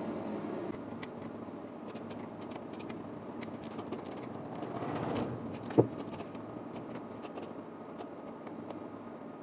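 Low background noise with scattered light clicks, and a single sharp knock with a short ring just before six seconds in.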